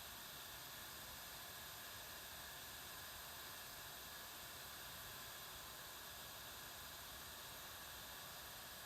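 Faint steady hiss with no distinct events, like microphone noise or room tone.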